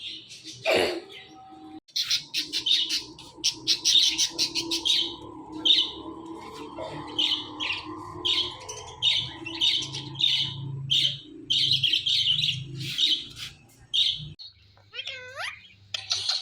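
Indian ringneck parakeet calling in a long run of short, high, repeated chirps, with a few gliding whistle-like notes near the end.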